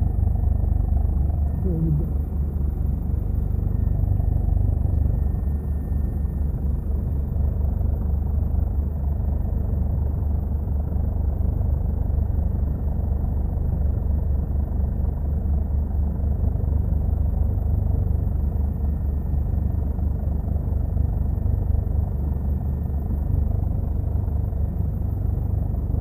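Steady low drone of aircraft cabin noise in flight, engine and airflow running without a break.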